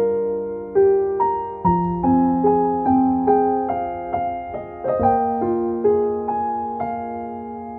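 Slow, gentle piano music: single notes and chords struck every second or so and left to fade.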